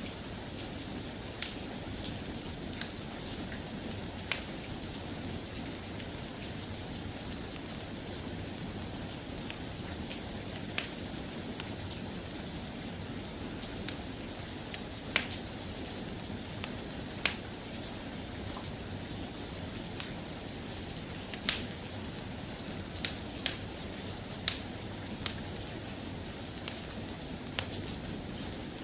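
Steady rain falling, with scattered sharp ticks and pops now and then, more of them in the second half.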